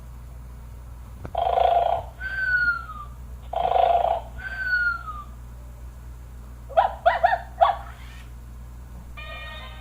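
Toy robot dog's recorded sound effects: twice a bark-like sound followed by a falling whistle-like chirp, then four quick yaps about seven seconds in.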